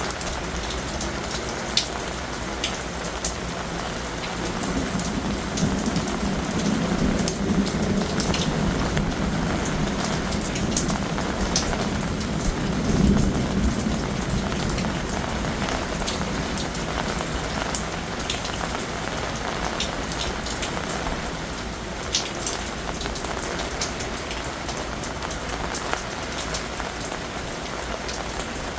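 Heavy rain falling steadily, with sharp drips ticking close by now and then. A low rumble of distant thunder swells from about five seconds in, is loudest around thirteen seconds, then fades.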